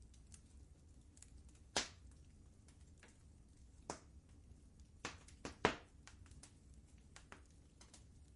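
Fireplace fire crackling: scattered sharp pops and snaps, one loud pop about two seconds in and a quick cluster a little past the middle, over a low steady rumble.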